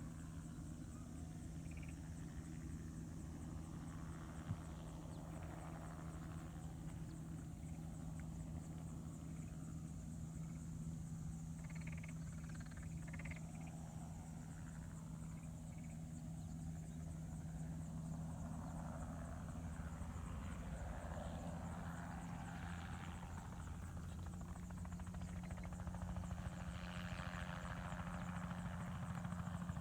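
Crop-spraying helicopter's engine and rotor running steadily at a distance, with a steady low drone that grows somewhat louder over the last few seconds.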